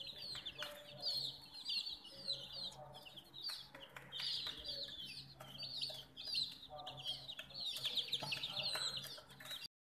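A group of baby chicks peeping, with many high, downward-sliding peeps overlapping without pause. The sound cuts out for a moment near the end.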